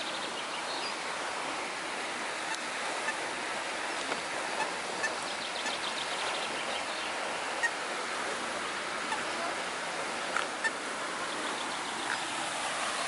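Steady rushing of flowing water, with a short high-pitched trill about five to six seconds in.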